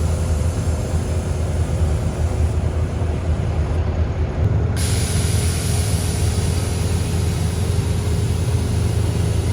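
Steady low rumble of a heavy vehicle's engine running, with an even hiss over it; the hiss changes character about five seconds in.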